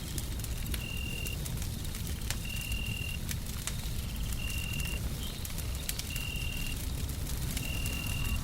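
Wood fire crackling with scattered sharp pops over a steady low rumble of noise. A short, high, steady tone repeats about every second and a half.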